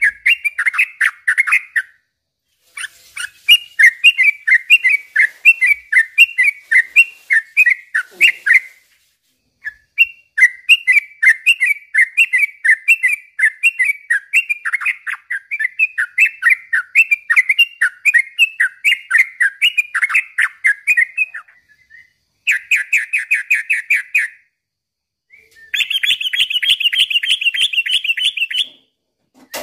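Yellow-vented bulbul (trucukan) singing long, bubbly phrases of quickly repeated notes, with short pauses between them. Near the end come two faster trills, the last one higher and buzzier.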